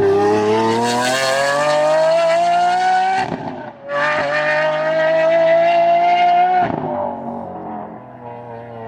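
High-revving sports car engine accelerating hard through two gears. The pitch climbs for about three seconds, breaks briefly at the upshift, then climbs again for nearly three seconds before the driver backs off. The high-pitched sound echoes off the surrounding mountains.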